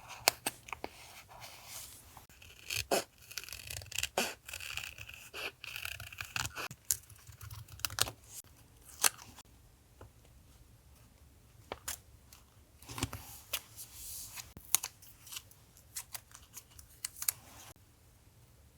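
Paper being handled for a journal collage: rustling, scratching and tearing of paper, with many scattered sharp taps and clicks of materials set down. The rustling stretch is densest in the first few seconds.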